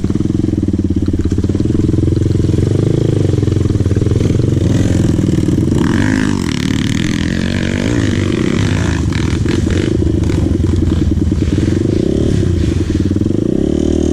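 Dirt bike engine running, its pitch rising and falling as the throttle is opened and closed, with some clatter in the middle.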